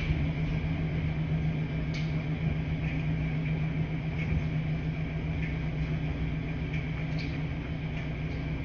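Washing machines running: a steady low hum and rumble, with a couple of faint clicks.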